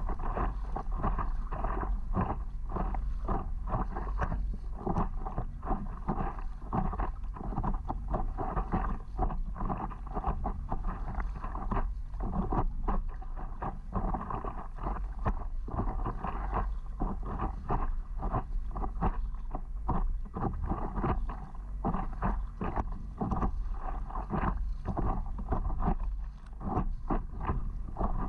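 Wind rumbling on the microphone over constant choppy splashing and lapping of water around a paddleboard.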